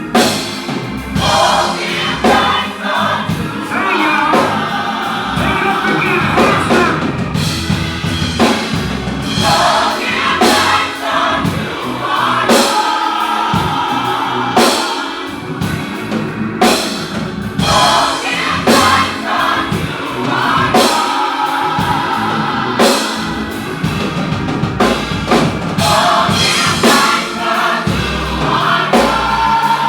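Gospel choir singing with a live band: drum kit keeping a steady beat, with bass and keyboard.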